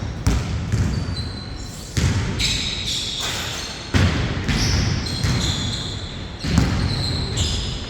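Basketball game in play: a ball bouncing and thudding on a court floor several times, with echo after each hit. Short high squeaks, typical of sneakers on the court, come and go between the thuds.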